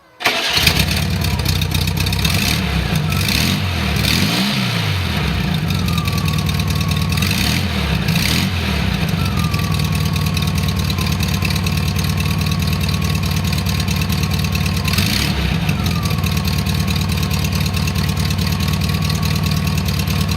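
1974 VW Super Beetle's air-cooled 1600 cc flat-four engine firing up at once and running, revved briefly three times, each time settling back to idle with a falling whine. It is the test run on freshly fitted, gapped spark plugs that replaced fouled ones, and it runs pretty good.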